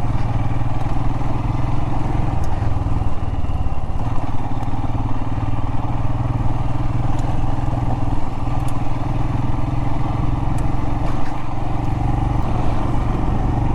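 Royal Enfield Himalayan's single-cylinder engine running at a steady, even speed under way, with wind rush and a few faint clicks.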